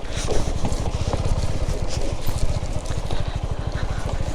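Motorcycle engine running steadily with a fast, even low pulse, the bike being ridden over a rough dirt track.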